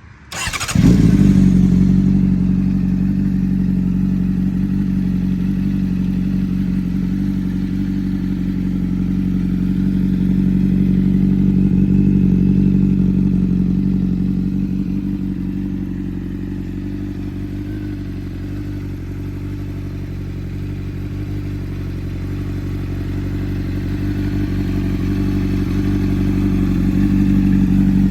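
Honda CBR600RR's inline-four engine starting up about a second in, flaring briefly and then settling into a steady idle through an aftermarket exhaust.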